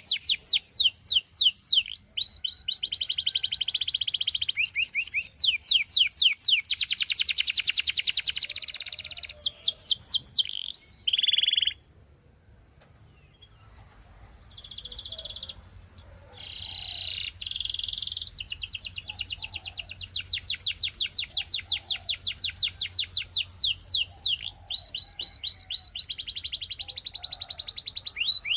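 Canary singing: long fast trills of rapidly repeated notes, changing from one roll to the next, with a pause of about two seconds near the middle.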